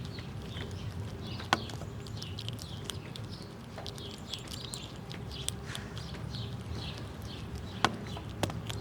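Squirrels chewing and cracking nuts: a run of small crunching clicks, with a sharp loud crack about a second and a half in and another near the end.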